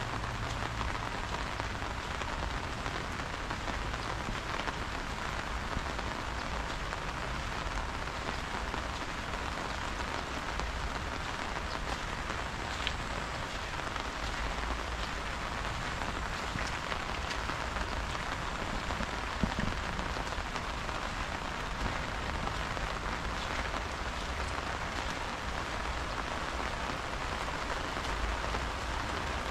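Steady rain falling, an even hiss with scattered drop ticks and one sharper tap about two-thirds of the way through.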